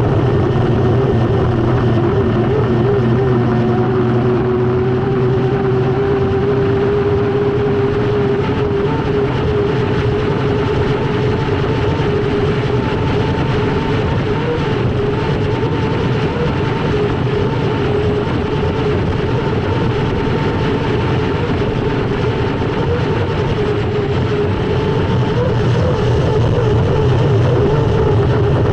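Onboard sound of an Unlimited hydroplane's gas-turbine engine running under power: a loud, steady whining tone that wavers slightly and swells near the end, over a dense rushing noise.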